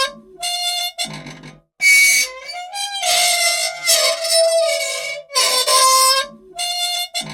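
Squeaky old machine's dry metal joints squealing in long, high, pitched squeaks that change pitch, with short lower rasps between them, the cycle repeating about every six seconds: the machine wants oil.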